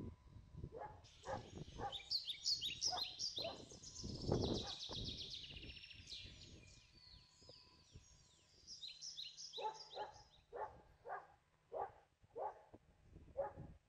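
Outdoor birds chirping and trilling in quick high runs, followed near the end by a series of short repeated calls about twice a second.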